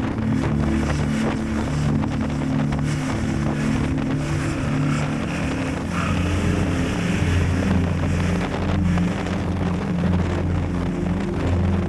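Yamaha Tracer 7 GT's 689 cc parallel-twin engine running under way, with heavy wind buffeting the microphone. The engine note changes pitch about six seconds in.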